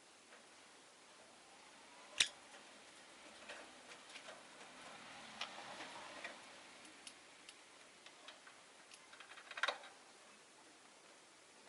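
Rosy-faced lovebirds moving about their cage: scattered light clicks and taps of beaks and claws on bars and perches, with one sharp tap about two seconds in and a short rasping burst near the end.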